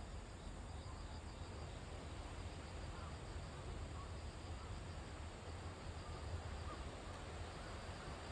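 Faint outdoor ambience: a steady low rumble with a few faint, scattered chirps.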